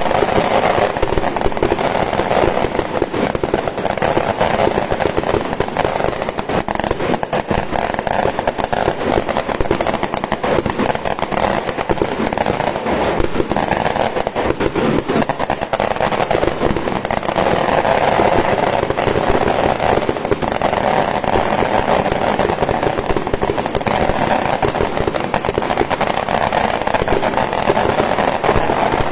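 Large festival bonfire burning: a dense, unbroken crackling and popping of burning wood that keeps a steady loudness throughout.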